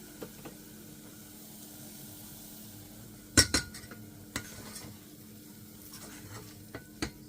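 Spoon and saucepan handling: a few scattered knocks and clinks of metal utensils and cookware, the loudest about three and a half seconds in, over a steady low hum.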